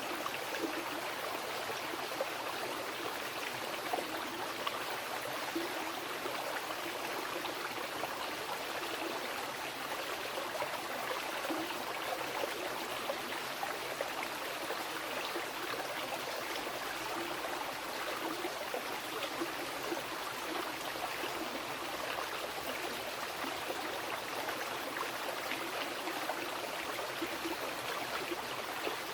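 A mountain river rushing and splashing over rocks: a steady, even flow of water with small splashes and gurgles throughout.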